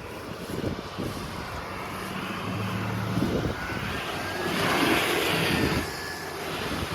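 GMC Sierra 2500 AT4X pickup's engine running under throttle during an attempt to drive through mud. A louder rushing noise swells about four seconds in and fades near six.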